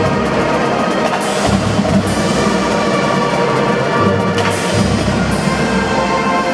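Marching drum band playing a piece: drums with melodic instruments over them, and a few sharp crashing hits.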